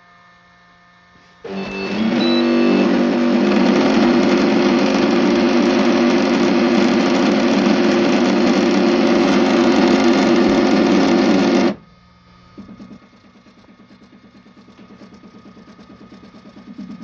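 Flashforge Adventurer 3 extruder trying to load filament: a loud grinding noise starts suddenly and cuts off sharply after about ten seconds, followed by a quieter, fast rhythmic pulsing from the feed motor. The drive wheel is spinning without feeding the filament.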